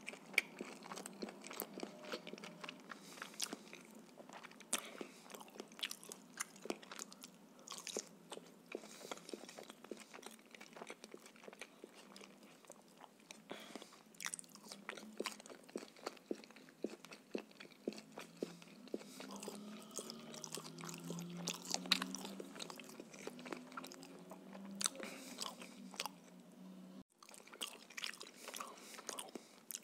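Close-miked eating: chewing and biting grilled shashlik meat, bread and baked potato, with many sharp wet mouth clicks and smacks.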